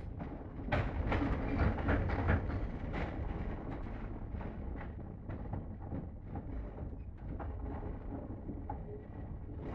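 Electric commuter train running, heard from inside the passenger carriage: a steady low rumble with a dense clatter of knocks from the wheels on the track, busiest in the first three seconds.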